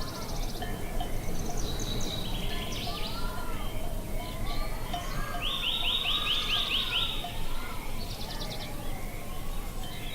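Several birds singing and calling, with a fast trill of about eight notes in the middle, over a low steady rumble.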